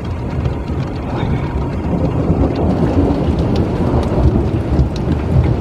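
Rolling thunder rumbling low and long over steady rain falling.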